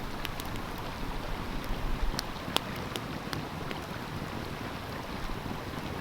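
Wood fire crackling with a few sharp pops over the steady rush of a flowing stream.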